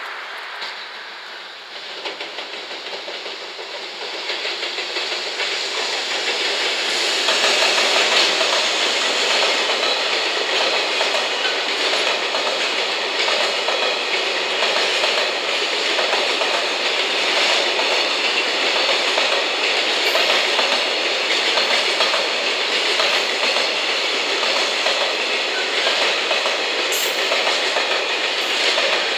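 Long container freight train hauled by an EF210 electric locomotive rolling past: a steady clatter of wheels over the rail joints. The sound builds over the first several seconds, then holds steady.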